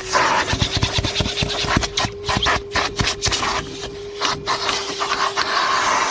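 Numatic Henry HVR200-22 vacuum cleaner running with a steady motor hum. Its nozzle rubs and knocks over surfaces, and the suction hiss cuts out briefly several times as the nozzle is pressed against them.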